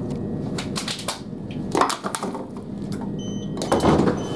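Clattering knocks and rattles inside a Class 377 electric train carriage as it slows into a station, over a steady rumble. Short repeated high beeps start about three seconds in.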